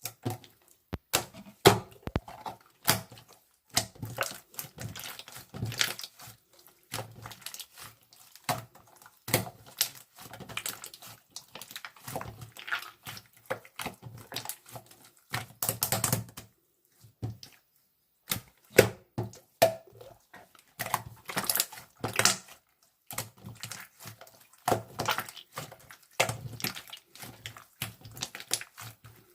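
Irregular clicks, taps and light knocks of small objects being handled and set down, close to the microphone.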